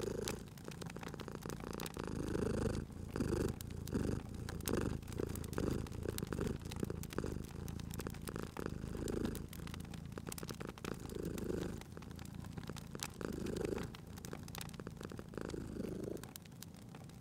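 Domestic cat purring close up, the purr swelling and fading with each breath about once a second, over the frequent small crackles and pops of a wood fire in a fireplace.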